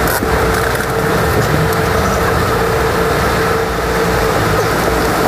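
Steady vehicle noise: a car's engine running at a standstill with a low rumble and a constant mid-pitched whine held over it.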